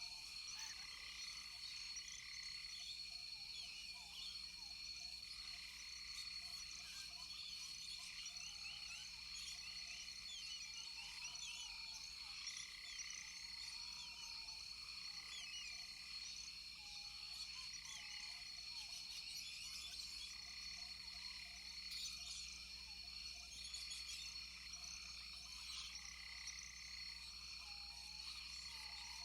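Rainforest chorus of frogs and insects: a steady high-pitched insect drone under many short chirps, with a lower call repeating every two seconds or so.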